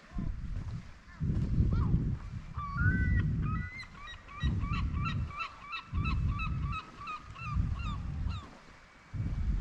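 A gull giving its long call: a fast run of repeated yelping notes that starts about two and a half seconds in and dies away near the end. Under it, repeated low rumbling gusts of wind on the microphone, about one every second and a half, are the loudest sound.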